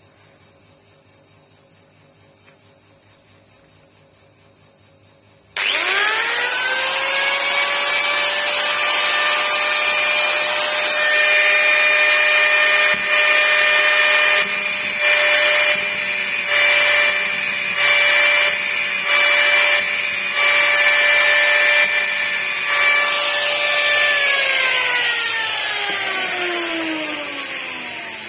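An electric power tool's motor switches on about five seconds in and runs at a steady whine, with a few short rasping bursts in the middle as it works. Near the end it is switched off and winds down with a slowly falling pitch.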